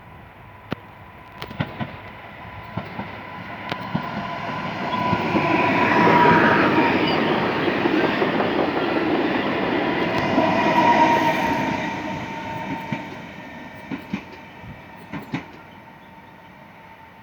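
PESA Elf EN76 electric multiple unit passing through on the rails. It builds up, is loudest in the middle and then fades, with sharp wheel clicks over rail joints and a steady high whine.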